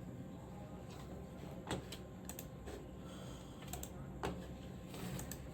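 A few light, sharp clicks and taps at irregular intervals over a low steady background hum.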